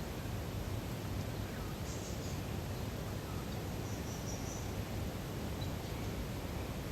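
Natural lake ambience: a steady soft hiss of outdoor air, with faint high chirps, from birds or insects, about two seconds in and again around four seconds in.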